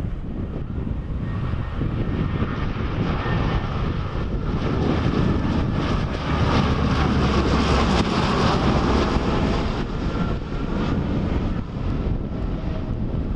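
Four-engine turboprop of a C-130H Hercules (four Allison T56 engines) passing on its landing, the steady engine and propeller noise swelling to its loudest after about seven seconds and then easing off. Wind rumbles on the microphone underneath.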